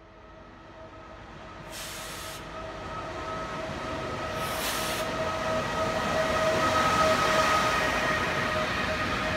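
A train approaching and passing, growing steadily louder to a peak about seven seconds in, with a steady whine of several pitches over the rail noise. Two brief hisses come about two and four and a half seconds in.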